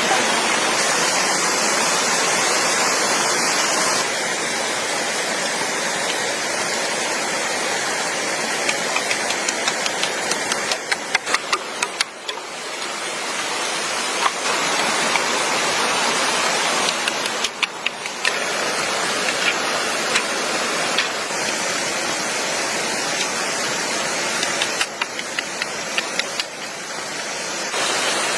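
Steady rushing water of a stream, with scattered clusters of small clicks and taps now and then.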